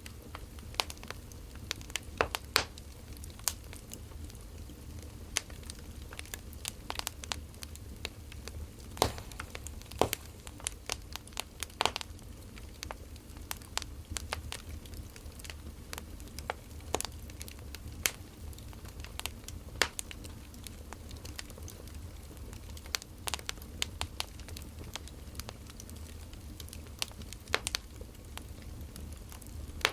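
Wood fire crackling, with irregular sharp pops of burning logs, some much louder than others, over a steady low rumble.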